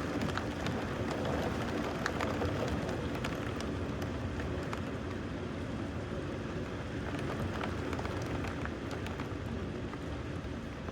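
Steady rain falling during a thunderstorm, with scattered sharp drop hits on a nearby surface.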